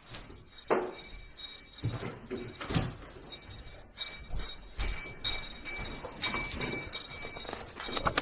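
A string of dull knocks and thuds a second or two apart, with a faint high steady ringing tone coming in about halfway.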